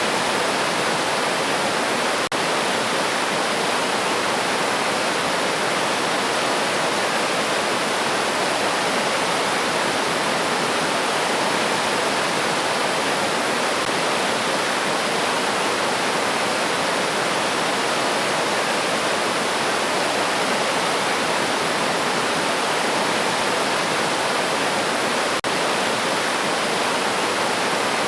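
River water flowing with a steady, even rush. It drops out for an instant twice, a couple of seconds in and near the end.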